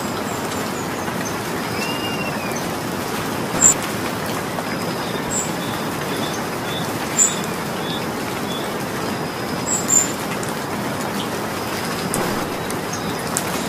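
Steady rain falling, with a few louder single drops striking close by and standing out sharply over the hiss.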